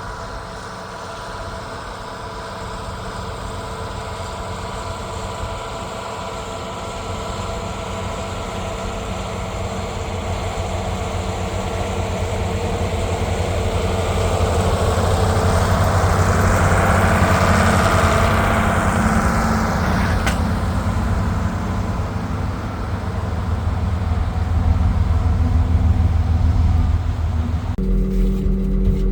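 2290 tractor's diesel engine running steadily while pulling a disc harrow across a field, growing louder through the middle of the stretch, with an abrupt shift to a deeper, steadier engine tone near the end.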